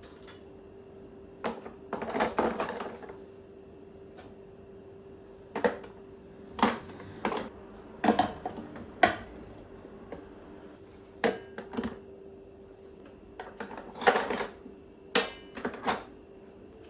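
Kitchenware being handled and set down: a string of irregular clinks, clicks and clatters, some in quick clusters, over a faint steady hum.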